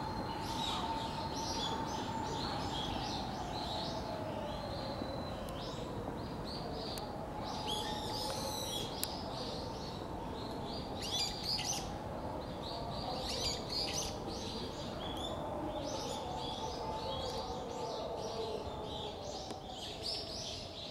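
Small birds chirping and twittering in short scattered bursts, over a faint continuous hum that slowly wavers up and down in pitch.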